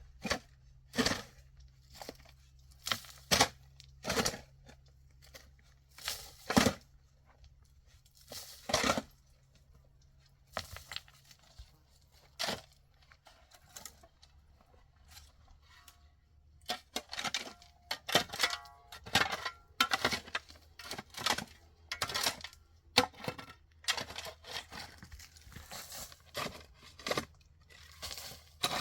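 A series of irregular crunching, tearing handling noises, spaced a second or two apart at first and coming thicker in the second half, with a few brief clinks among them.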